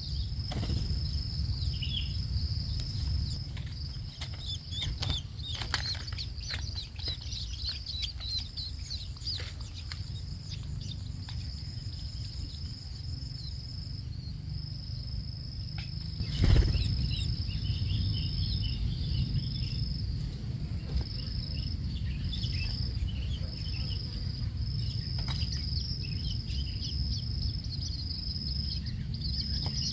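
Long-tailed shrike chicks giving many short, high chirps in scattered runs, over a steady high insect whine and a low rumble, with one loud knock about halfway through.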